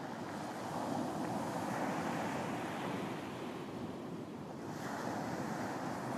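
Ocean waves breaking and washing up on a beach: a continuous surf wash that swells about a second in, eases off near four seconds, and swells again from about five seconds.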